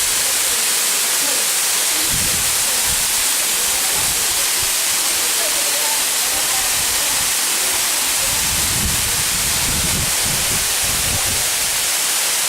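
Waterfall: a steady, loud rush of falling water, with low rumbles coming and going about two seconds in and again from about eight to eleven seconds.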